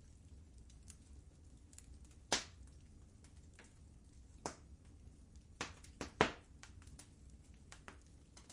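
Wood fire crackling in a fireplace: sparse, irregular sharp pops and snaps, with a louder pop a little after two seconds and a quick cluster of pops around six seconds in.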